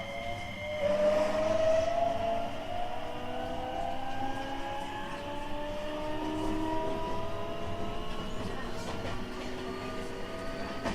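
225 series 5000-subseries EMU's Toyo IGBT VVVF inverter and traction motors whining in several tones that rise steadily in pitch as the train accelerates, over the rumble of the running train. About a second in, the set of tones changes abruptly.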